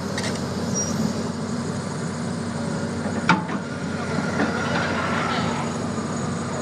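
Excavator's diesel engine running steadily, with a single sharp metallic clank about halfway through.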